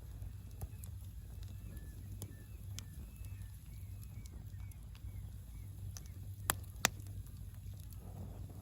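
Campfire crackling with scattered sharp pops, two loud ones about six and a half seconds in. A bird chirps repeatedly in the background during the first part.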